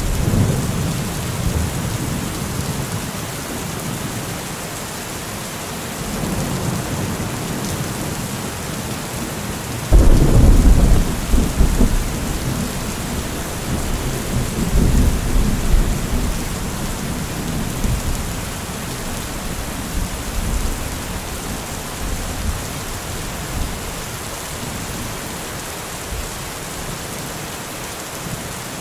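Heavy rain falling steadily, with rolling thunder: a sharp clap right at the start that rumbles away, a lower rumble about six seconds in, and a loud clap about ten seconds in that rolls on for several seconds before dying down.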